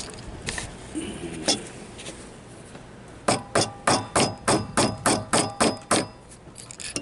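Hammer tapping on metal, a run of about eleven quick ringing strikes at roughly four a second starting about three seconds in, seating the handle and its pin on a new battery disconnect switch. A couple of lighter clicks come before.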